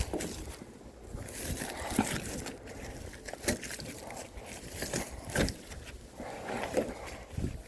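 Oak firewood logs being handled, knocking and scraping: scattered light knocks about a second apart.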